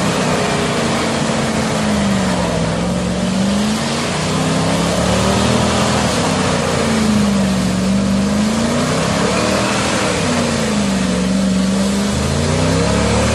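A 4x4's engine under hard throttle in mud, its pitch falling and rising again and again as the revs swing with the wheels biting and spinning.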